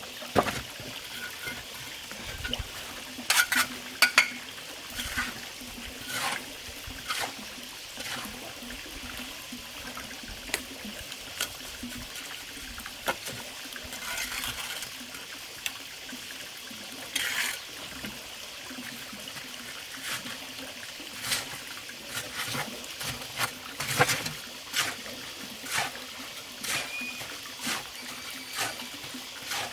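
Steady trickle of running water under irregular sharp knocks and clinks, a dozen or more scattered through, the loudest a few seconds in.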